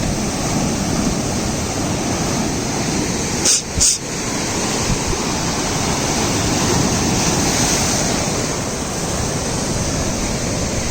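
Heavy sea waves surging and breaking against a seawall, a steady loud rush of churning water and spray. A little over three seconds in come two brief clicks and a momentary dip.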